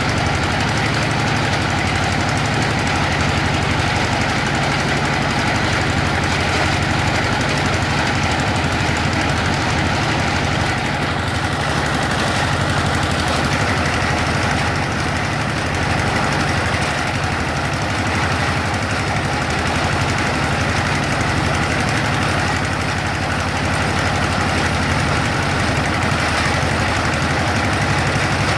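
Homemade water-well drilling rig running steadily: a loud, continuous mechanical clatter with a fast rattling pulse underneath.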